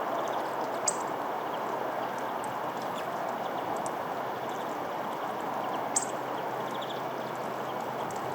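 Small songbirds at a feeder giving faint, short chirps over a steady rushing background noise, with two sharp clicks, about a second in and about six seconds in.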